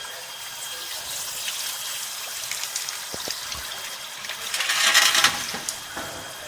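CNC glass drilling machine running, its diamond bits grinding into glass with running water, over a steady motor whine. The grinding hiss swells to its loudest about five seconds in, then settles back.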